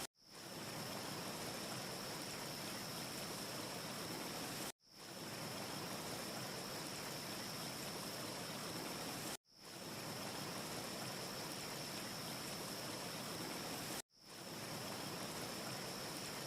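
Steady rushing wind-like hiss with a thin, high steady whistle over it, from a short looped ambience track. It cuts out to silence and fades back in about every four and a half seconds.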